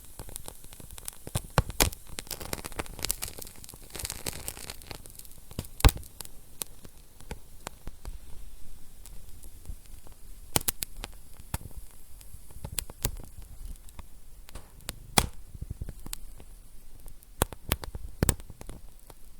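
Wood fire crackling in a fireplace: irregular sharp pops and snaps over a steady soft hiss, with a louder pop about six seconds in.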